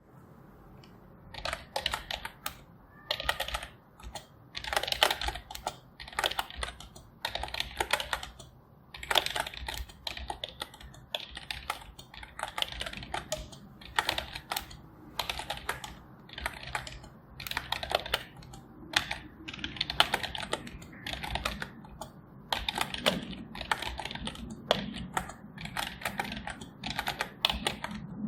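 Typing on a computer keyboard: runs of rapid key clicks in bursts, with short pauses between them.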